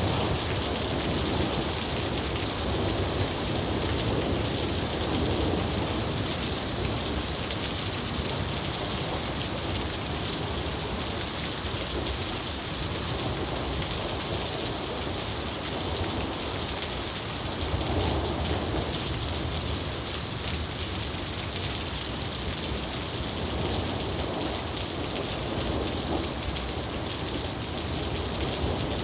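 Steady, heavy rain hissing on surfaces, with low rumbles of thunder swelling and fading a few times: near the start, about two-thirds of the way through, and near the end.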